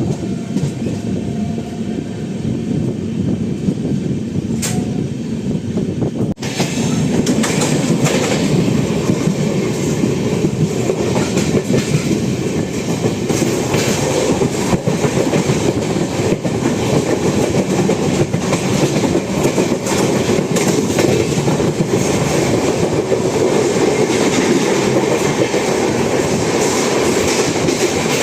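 Sleeper coach of an express train running at speed: a steady rumble with wheels clattering over the rail joints. About six seconds in the sound cuts abruptly to a louder, harsher stretch of the same running noise.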